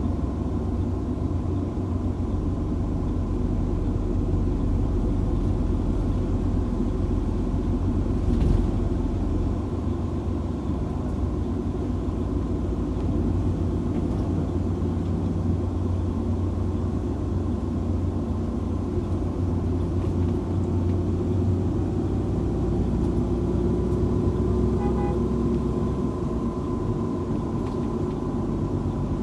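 Steady low rumble of a car driving on a highway in heavy rain, with a faint steady hum over it. A single brief knock comes about eight seconds in.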